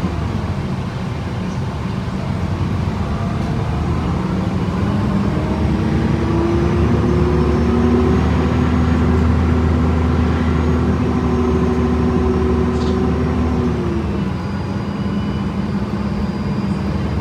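2011 Gillig BRT transit bus's diesel engine and Voith automatic transmission pulling the bus along: a steady drone whose tones rise over the first several seconds, hold, then drop about three seconds before the end.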